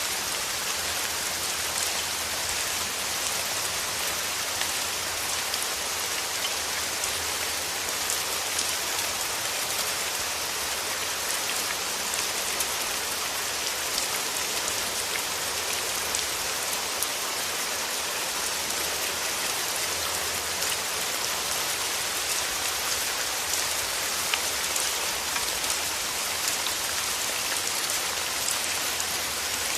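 Steady rain falling through forest trees, an even hiss with many small drops pattering on leaves.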